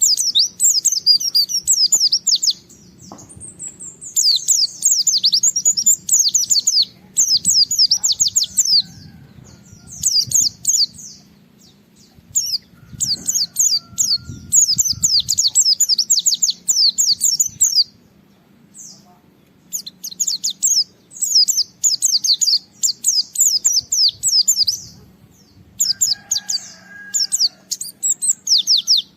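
White-eye (pleci) singing in fast, high-pitched chattering phrases a few seconds long, separated by short pauses: the excited, persistent 'gacor' song of a bird challenging a rival.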